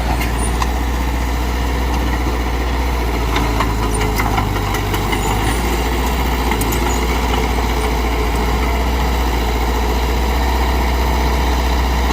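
Heavy diesel earthmoving machine engine running steadily, with scattered light clanks during the first half.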